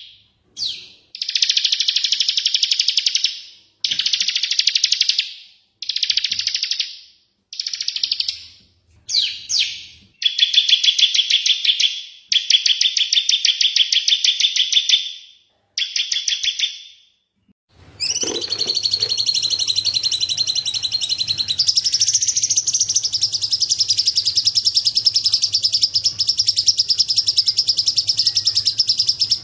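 Small songbirds' rapid, buzzy trills, repeated in bursts of one to three seconds with short gaps. About two-thirds of the way in it changes to one unbroken high trill over a faint low hum.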